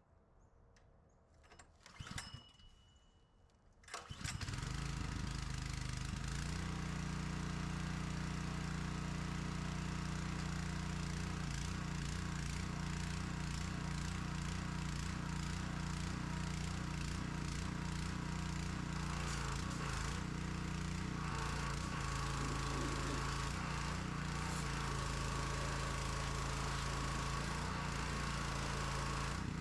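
An engine catches about four seconds in and then runs steadily at a constant speed until it cuts off abruptly.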